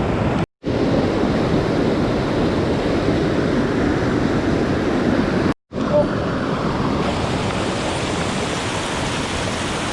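Mountain stream water rushing steadily, broken by two brief total silences, about half a second in and a little past the middle.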